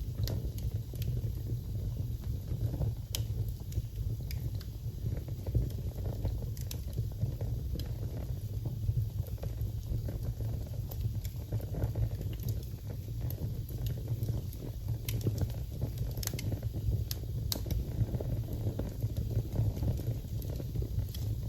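Wood fire burning in a fireplace: a steady low rumble of flames, with sharp crackles and pops from the burning logs about every second or two at irregular intervals.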